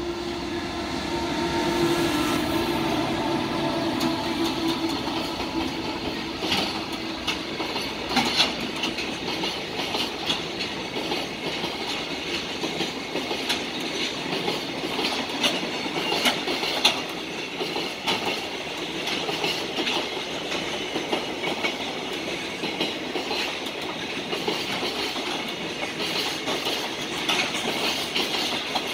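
Container freight train passing by behind an electric locomotive: a steady hum in the first few seconds as the locomotive goes by, then a long string of container wagons rolling past with the rhythmic clickety-clack of wheels over rail joints and sharper clacks now and then.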